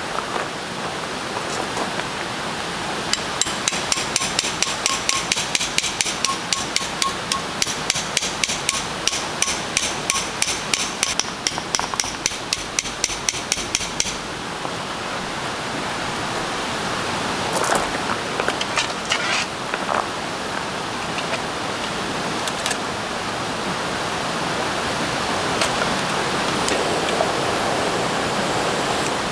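A knife chopping quickly on a cutting board, about five even strokes a second, for some ten seconds from about three seconds in. After that only a steady hiss remains, with a few faint clicks.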